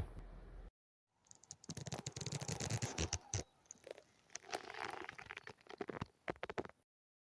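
Close-up handling noise: a run of crackles, rustles and sharp taps, starting about a second in and cutting off abruptly near the end.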